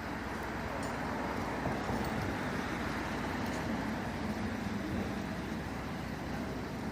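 A large vehicle's engine running steadily, a continuous low hum under outdoor background noise, slightly stronger about halfway through.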